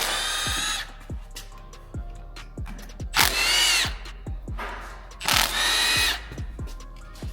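A cordless power tool whirring in three short bursts of under a second each, with clicks of metal parts in between: bolts being spun out of the engine's rocker arms during a teardown of a Chevy 5.3 V8.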